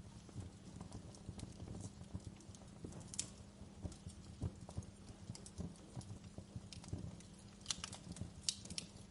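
Wood fire crackling in a fireplace: a dense low crackle with irregular sharp pops, a few louder snaps about three seconds in and near the end.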